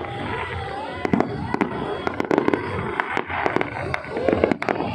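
Fireworks going off, many sharp bangs and cracks in quick irregular succession, with people's voices in the crowd underneath.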